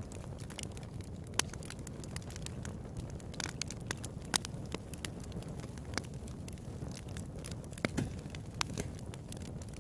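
Wood fire in a fireplace crackling steadily, with irregular sharp pops over a low rush of flame.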